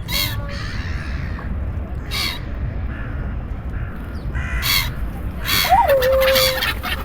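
Birds giving short, harsh calls spaced a couple of seconds apart, then several in quick succession near the end. About six seconds in there is a brief whistled note that rises, drops and holds. A steady low rumble runs underneath.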